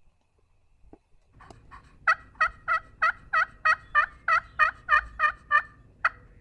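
Slate friction turkey call worked in a run of hen yelps: about a dozen evenly spaced yelps, roughly three a second, starting softly and then louder, with one last yelp near the end.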